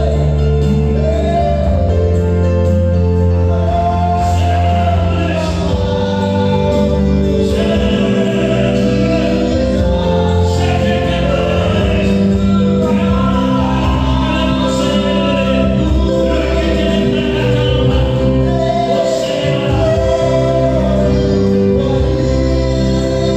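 Gospel worship music with group singing over a sustained keyboard and bass accompaniment.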